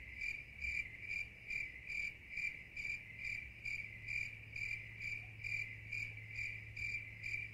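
Insect chirping in an even rhythm, about two chirps a second, over a faint steady low hum.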